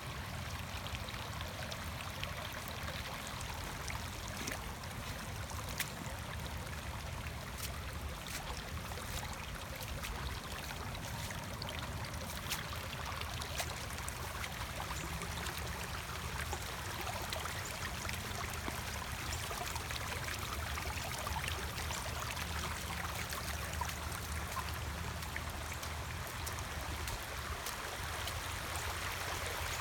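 Steady rain with water running and trickling, and many scattered sharp drop ticks over it; a low steady rumble lies underneath.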